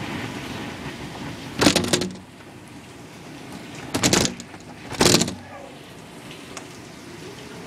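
Steady noise of a heavy rainstorm, broken by three short, loud bursts: one about a second and a half in, then two close together around four and five seconds in.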